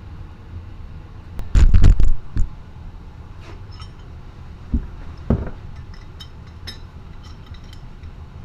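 Metal tools and parts being worked on an ATV rear axle: a quick run of loud metallic knocks about two seconds in, two duller knocks a few seconds later, then light metallic clinks.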